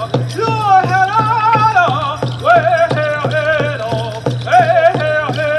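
Native American hoop dance song: a singer holding high, wavering notes over a steady, even drumbeat.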